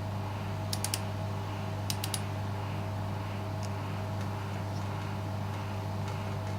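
A steady low mechanical hum with a few fixed higher tones over it, and two quick runs of three light clicks, about one and two seconds in.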